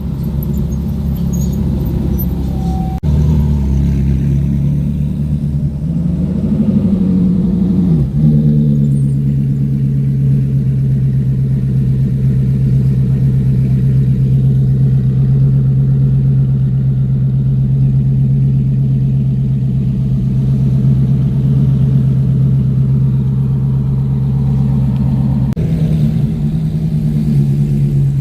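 A car engine running loudly close by. Its pitch rises several seconds in, then holds a steady high idle, with a brief change near the end.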